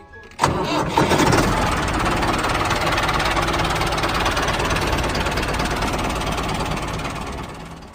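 Small engine of a DIY mini tractor running with a rapid knock, starting abruptly about half a second in and easing slightly near the end.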